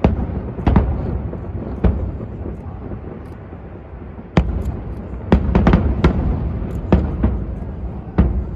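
Aerial fireworks shells bursting in a string of sharp booms over a low rumble, a few seconds apart at first, then several in quick succession about halfway through.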